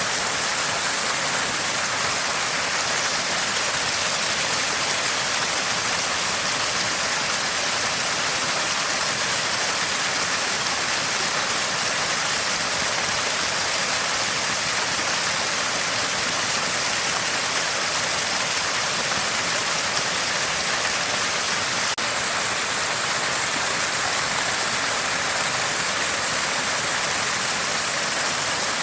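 Small spring gushing and gurgling steadily, a constant bright rush of running water.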